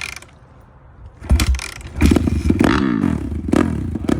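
Suzuki RM-Z450 single-cylinder four-stroke dirt bike being kick-started: the engine fires about a second in, catches, and is revved several times, its pitch rising and falling with each blip of the throttle.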